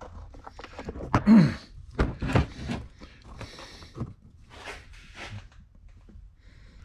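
Metal clinks and knocks from a Muncie four-speed's tail shaft housing being swung around and fitted against the transmission case. The loudest knocks come between about one and two and a half seconds in, with a short falling grunt-like vocal sound among them.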